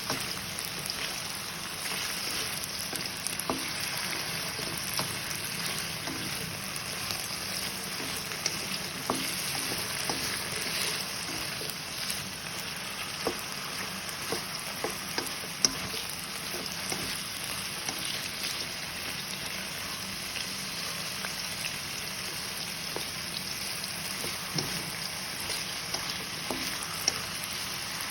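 Food sizzling in hot oil in a pan, a steady hiss with scattered sharp crackles and clicks, as it is stirred now and then.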